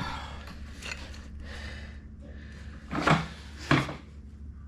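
Hand work on tractor parts: scattered knocks and scraping of metal parts and tools being handled, with two louder short clunks a little past halfway, over a steady low hum.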